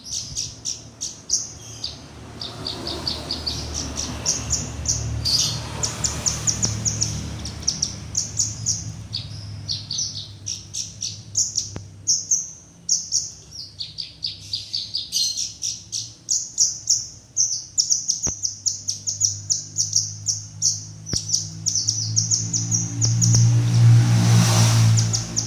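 Javan bush lark (branjangan) singing in fast, high, chattering trills, phrase after phrase with short breaks. A low rumble like a passing vehicle runs underneath and grows loudest near the end.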